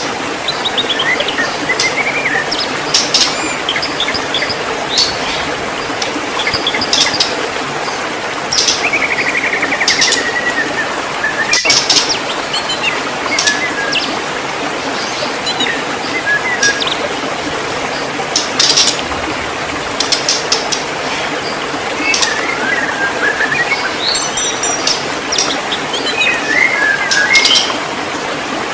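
White-rumped shama singing: a varied string of whistled phrases with rising and falling glides and quick trills, over a steady hiss.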